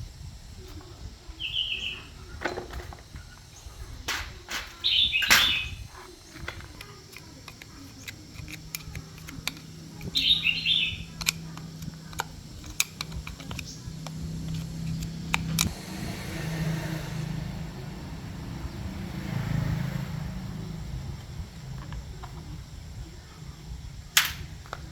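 Birds chirping in a few short high calls, among scattered clicks and knocks. A low hum runs through the middle stretch.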